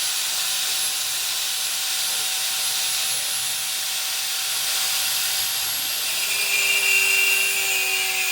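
Angle grinder running steadily with its disc cutting into steel, giving a continuous high hiss; its pitch shifts about six seconds in as the load on the disc changes.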